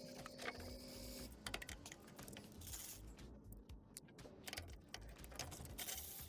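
A quick, irregular run of light clicks and taps.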